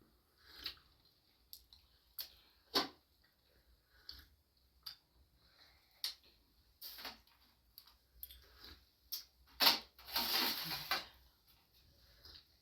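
Scattered light clicks and taps of small objects being handled, with a short rustling scrape about ten seconds in.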